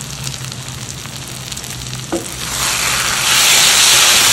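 Pepper chicken and fresh curry leaves sizzling in oil in a non-stick kadai, stirred with a wooden spatula: a soft sizzle, a knock about two seconds in, then a much louder, steady sizzle as the leaves are stirred into the hot masala.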